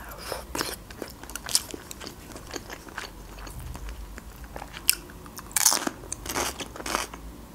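Close-miked eating sounds: chewing a mouthful of cheese casserole with wet mouth clicks, then crisp crunching bites of raw bell pepper, the loudest crunches about three-quarters of the way through.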